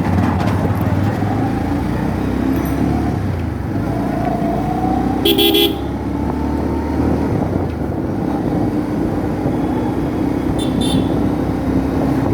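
Road traffic with engines running steadily and short vehicle horn toots, a loud one about five seconds in and a shorter one near the end.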